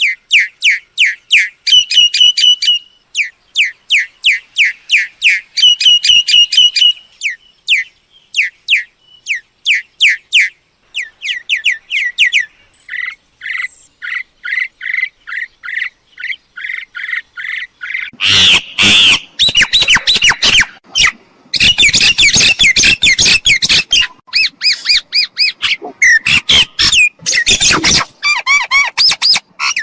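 Myna calls: quick runs of sharp, repeated down-slurred whistles in bursts, then from about two-thirds in a louder stretch of harsh squawking and chattering.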